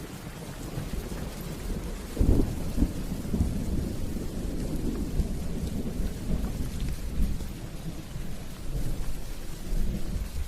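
Steady rain with a deep rolling thunder rumble that starts with a sudden crack about two seconds in and fades out near the end.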